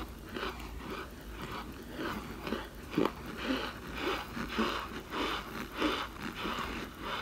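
Baked cornstarch chunks being chewed: a steady, light crunching at about two bites a second.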